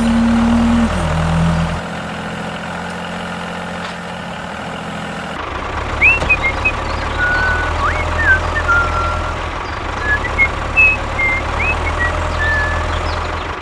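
A small motor runs steadily, its pitch stepping down over the first two seconds. From about six seconds in, short bird-like chirps sound over it.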